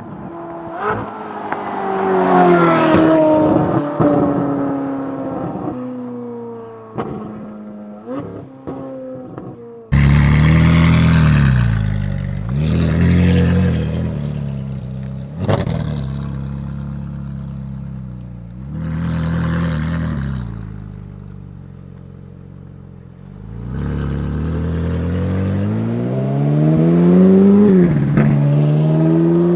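Ferrari 458's naturally aspirated V8 through a titanium valved exhaust with free-flow front bypass pipes, heard from outside: revs rise and fall repeatedly, with sharp pops on the overrun in the first third. Near the end the engine climbs steadily in pitch, then drops abruptly.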